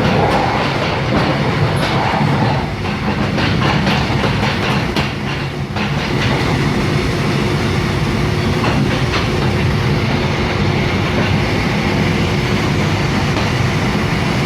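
Train running on the track, heard from on board: a steady rumble with the wheels clicking over rail joints. The clicks are most frequent in the first six seconds.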